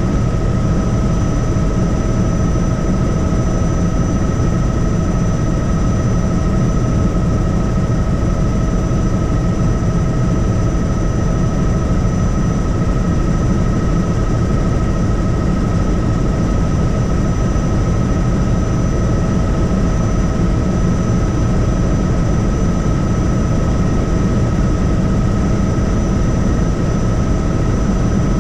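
Helicopter in flight: steady, loud rotor and engine noise with a constant high whine over a low rumble.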